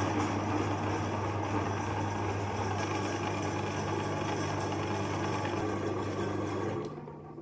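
Electric meat grinder running steadily with a low motor hum, then switched off near the end, its motor winding down.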